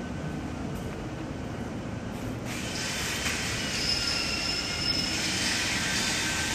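Industrial tunnel furnace with a stainless steel mesh belt running, with a steady mechanical hum. About two and a half seconds in, a louder hiss sets in, carrying several high, steady squealing tones.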